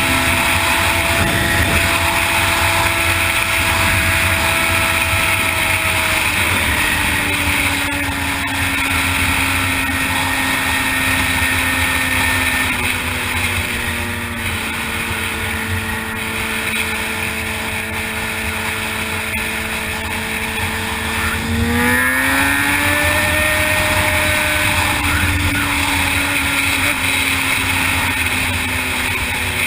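Honda CBR600RR sportbike's inline-four engine running at a steady cruise, its pitch slowly sinking as the bike eases off, then climbing quickly about 22 seconds in as the rider gets back on the throttle, over a steady rush of wind noise.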